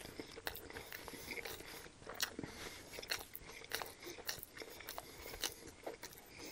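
A person chewing a mouthful of panko-crusted fried chicken sandwich with bacon on a toasted bun, close to the microphone: quiet, irregular crunches and clicks.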